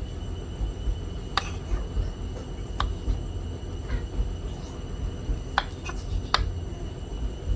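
Kitchen knife cutting garlic cloves into large pieces: about six sharp, irregular clicks of the blade striking the surface beneath, over a steady background hum.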